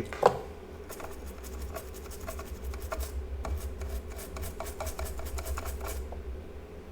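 A sharp click, then about five seconds of quick scratching and scraping strokes as a chip on an engine control unit's circuit board is cleaned, over a steady low hum.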